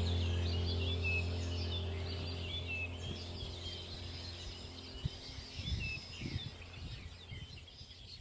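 A flock of weaver birds chattering, many short overlapping chirps that grow fainter towards the end. A steady low hum underlies the first half and dies away.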